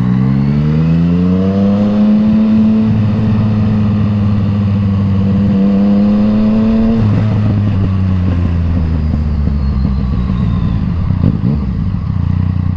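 Yamaha MT-09 inline-three with an Akrapovič exhaust, its engine note rising over about two seconds and holding steady. About seven seconds in the higher note cuts off suddenly, leaving a steady lower engine note.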